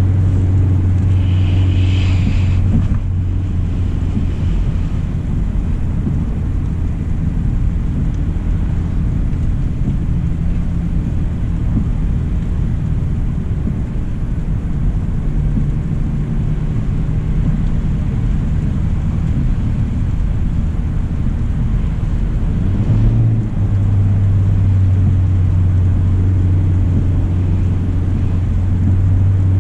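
A 2025 Hyundai Elantra SEL driving on a wet road: steady tyre and road noise with a hiss of rain and spray. A low drone is strong at the start, drops away after about three seconds and comes back about three-quarters of the way through. A brief higher-pitched sound comes about two seconds in.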